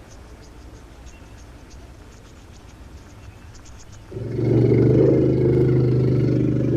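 Faint ticking of insects, then about four seconds in an elephant lets out one long, loud bellow.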